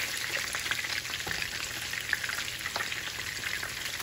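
Meatballs shallow-frying in hot canola oil, a steady sizzle with scattered small crackles and pops, while a silicone slotted spoon scoops through the pan to lift the browned ones out.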